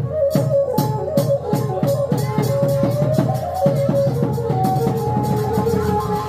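Khmer chhay-yam ensemble music: drums and cymbals beaten in quick, uneven strokes, several a second, under a held melody line.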